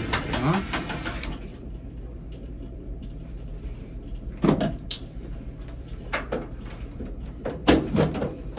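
Washer repair handling: the screw holding the water inlet valve is taken out in the first second or so, then the plastic and metal parts are knocked and clunked as they are worked loose. The loudest clunks come about halfway through and near the end.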